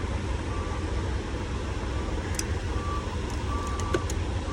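Steady low engine rumble, like idling vehicles, with faint intermittent beeping of uneven length. A few small clicks of handling come through near the middle and at the end.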